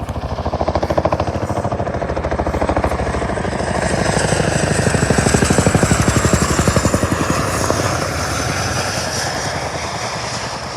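RAF Chinook tandem-rotor helicopter flying low on its approach to land: the rapid, rhythmic chop of its twin rotors, swelling to its loudest about halfway through and then easing. A thin, high turbine whine rides over it and falls slightly in pitch midway.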